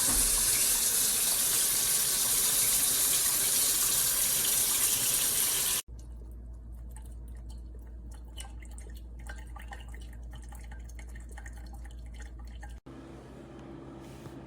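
Water running in a loud, steady hiss that cuts off abruptly about six seconds in. Then comes a much quieter low hum with faint crackles and clicks, and near the end a change to a quiet steady hum.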